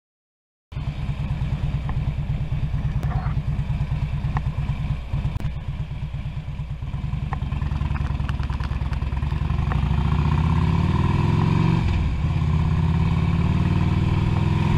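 Harley-Davidson Road King's V-twin engine, starting abruptly about a second in. It idles with an even pulsing beat, then pulls away and accelerates with a rising pitch. The pitch dips briefly at a gear change and rises again.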